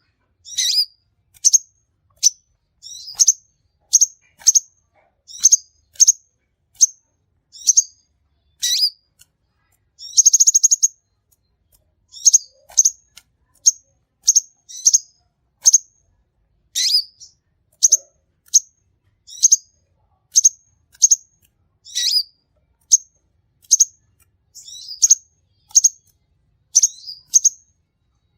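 Sunbird ('kolibri') calling: a long run of short, sharp, high chirps, one every half second to a second, with a brief buzzy trill about ten seconds in.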